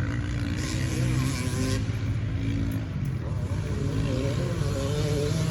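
Motorcycle engines running and revving, their pitch rising and falling over a steady low rumble.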